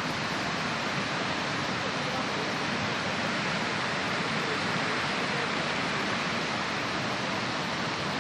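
A steady, even rushing noise with no change in level and no distinct events, of the kind made by running water or wind.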